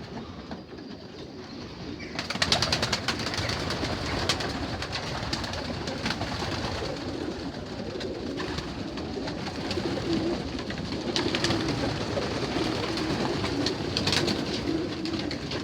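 Young racing pigeons cooing in a loft, mixed with many short taps and clicks. The whole sound steps up louder about two seconds in.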